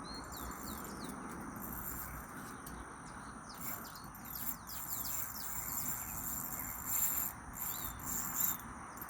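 Countryside ambience: insects trilling steadily at a high pitch, with many short, quick downward-sweeping bird chirps over a steady low hiss. The insect sound swells louder twice near the end.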